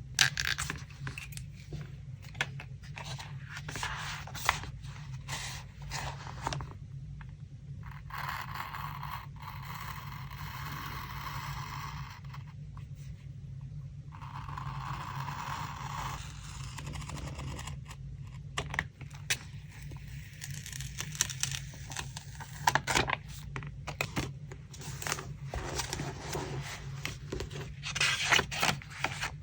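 Paper craft materials being handled close up: crackling, rustling paper and small clicks, with two longer scraping strokes of a few seconds each in the middle. A low steady hum runs underneath.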